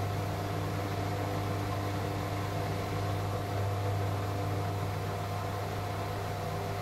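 AEG Lavamat L88489FL washing machine running through its duvet programme, a steady low hum with a fainter steady whine above it.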